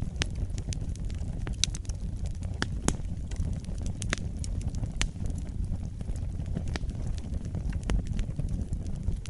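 Wood fire burning in a fireplace: a steady low rumble with irregular sharp crackles and pops, a few louder pops standing out.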